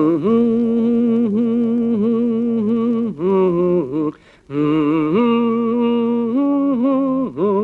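A single voice singing a slow, wordless melody with vibrato, in long held notes, with a brief pause for breath about four seconds in.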